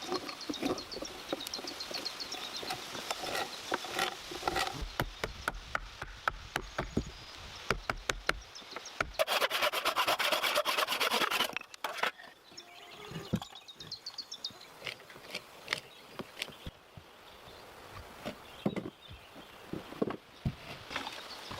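Hand tools working wood: a run of knocks and scraping strokes, with a louder, steady rasping stretch of about two seconds around nine seconds in.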